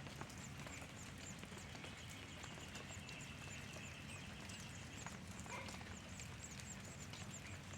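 Small birds chirping at a nest: a steady run of short, high, downward-slurred notes, a few each second, over a faint low hum.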